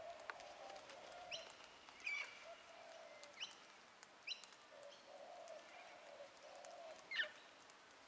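Faint bird calls: a low note repeated in short phrases, with about five short, sharp calls over it, the loudest near the end.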